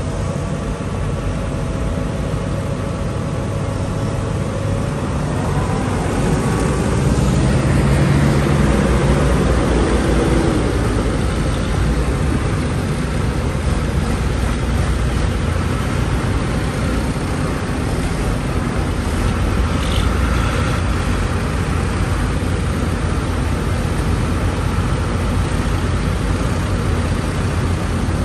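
Tractor engines running steadily as tractors drive along the road, a continuous low rumble with a changing engine pitch a few seconds in.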